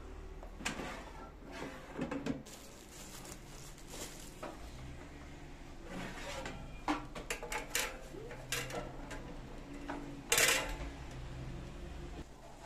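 Irregular clicks and knocks of small objects being handled, over a low steady hum; the loudest knock comes near the end.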